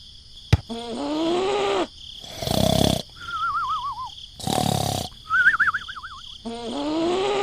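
A string of comic cartoon sound effects. A click is followed by a rising-then-falling groaning call, a short noisy burst, a wobbling whistle that slides down, a second noisy burst, another wobbling whistle, and a second groaning call near the end, all over a steady high hiss.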